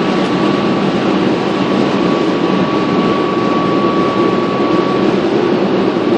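Automatic car wash spraying water over the car, heard from inside the cabin: a steady rushing hiss like heavy rain, with a thin whine from the wash machinery that drops away about five seconds in.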